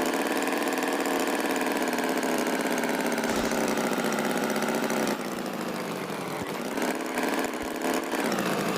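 Tractor engine running steadily. About five seconds in it gets a little quieter and its pitch sags, then climbs again near the end, with a few light knocks.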